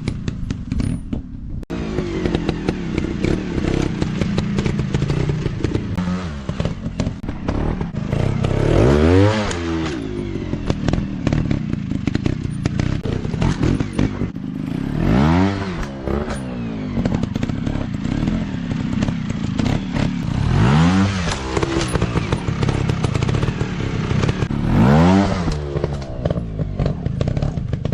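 Dirt bike engines running on an off-road ride, revving up and falling back about four times, with clattering knocks throughout.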